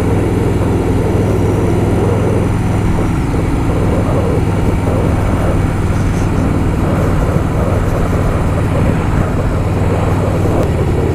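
Harley-Davidson Softail Fat Boy's air-cooled V-twin engine running steadily while cruising, heard from the bike with wind noise on the mic.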